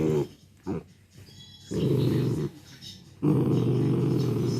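Miniature dachshund growling in bursts: a short growl, a brief one, then two longer growls of about a second each. It is an angry warning growl at someone trying to take away the thing he is suckling on.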